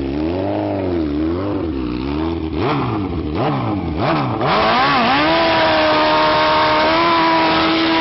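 Motorcycle engine revving, its pitch rising and falling several times, then about halfway through getting louder and holding steady at high revs.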